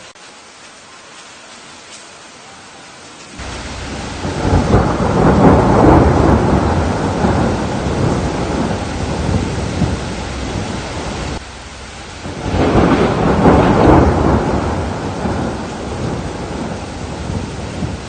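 Steady rain with two long rolls of thunder: the first breaks in suddenly about three seconds in and slowly fades, the second swells up about twelve seconds in and fades again.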